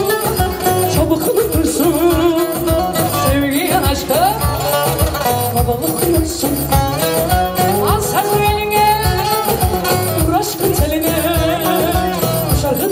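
Live Turkish folk dance music with a fast, steady beat and a melody line running over it.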